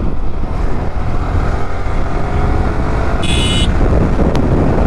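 Yamaha R15 V3's 155 cc single-cylinder engine running while the motorcycle is ridden, mixed with heavy wind rush on the helmet-mounted microphone. A brief high-pitched beep sounds about three seconds in.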